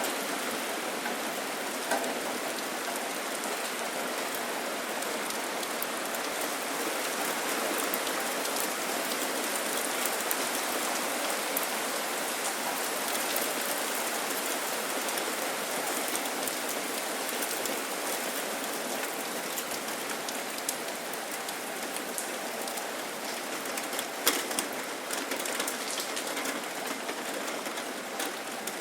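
Steady rain falling, with an even hiss and scattered sharper drop ticks, a cluster of them about 24 seconds in.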